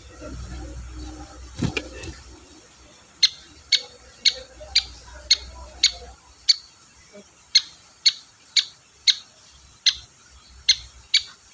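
Long-tailed shrike (cendet) calling: a run of short, sharp, repeated notes, about two a second, starting about three seconds in. A low rumble and a knock come first.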